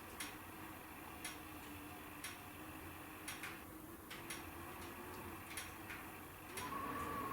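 Wood fire burning in a fireplace: irregular sharp crackles and pops, roughly one or two a second, over a soft steady burn with a faint thin whistle that grows a little louder near the end.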